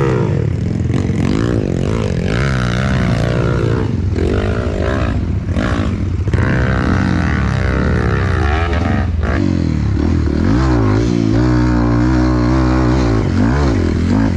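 Trail motorcycle engine under way off-road, its pitch rising and falling over and over as the throttle is worked, then held steadier for a few seconds near the end. A few sharp knocks or clatters come through around the middle.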